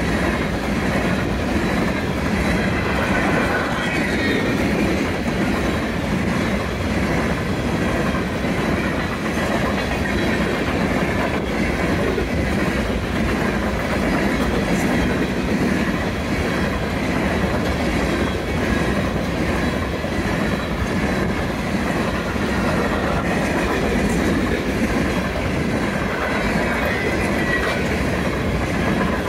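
Freight train cars rolling past: a steady, loud rolling noise of steel wheels on rail, with a faint high wheel squeal about three seconds in and again near the end.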